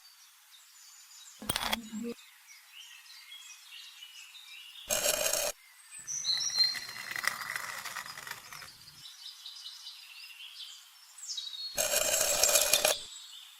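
Birds chirping faintly in an outdoor background, broken by a brief click and three short bursts of noise, the loudest near the end, from an unseen source.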